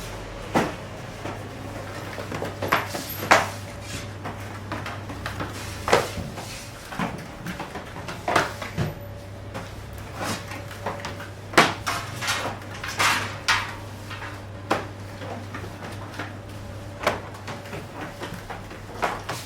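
Kitchen clatter: irregular sharp knocks and clinks of dishes and utensils being handled, over a steady low hum.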